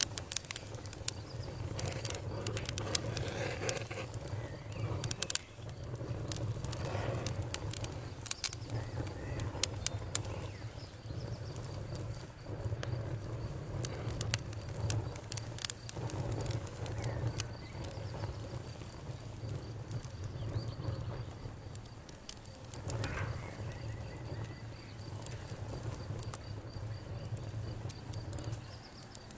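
Campfire burning: wood crackling with frequent sharp pops, thickest in the first ten seconds, over a steady low rumble of flames.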